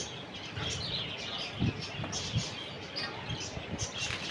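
Many small pet birds chirping in quick, repeated short notes, with two soft low thumps near the middle.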